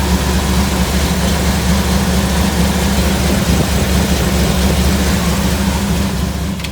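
1974 Ford F100 pickup's engine running at a steady idle, with its newly replaced power steering pump just filled with fluid.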